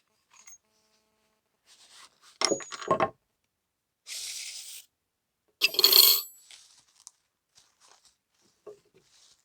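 Objects being handled: a few sudden knocks and metallic clinks with a short ringing, a brief rustle about four seconds in, and the loudest clink about six seconds in, followed by a few faint ticks.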